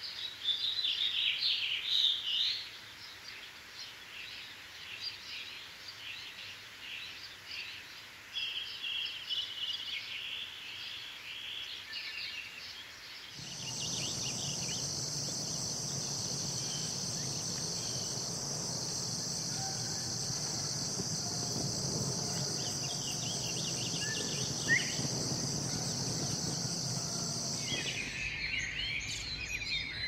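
Wild birds chirping and calling in quick repeated notes. About halfway through this cuts abruptly to a steady high-pitched insect drone over a low rumble, and near the end it switches back to bird chirps.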